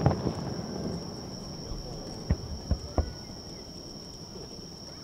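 Three sharp, distant booms of aerial firework shells about two to three seconds in, over a steady high-pitched trilling of night insects.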